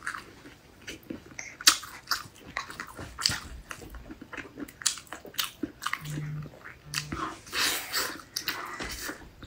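Close-up eating sounds: biting and chewing skewered grilled food, an irregular run of short sharp clicks and crunches. Two short low hums come a little past the middle.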